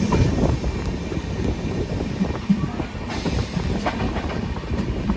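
Passenger train running, a steady rumble and rattle of the coach with a few sharper clicks of wheels over rail joints.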